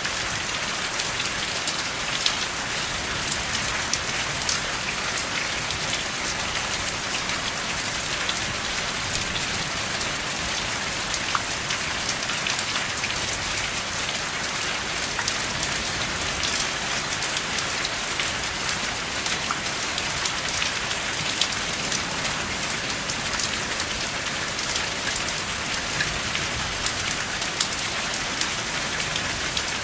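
Steady rain falling, a dense even hiss with many individual drops tapping sharply through it, and no thunder.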